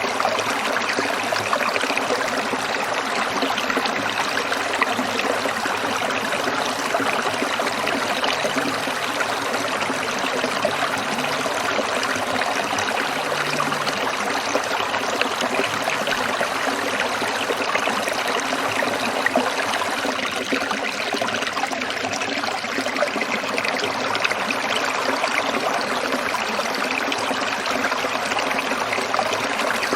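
Small stream trickling and babbling over rocks: a steady, even rush of water.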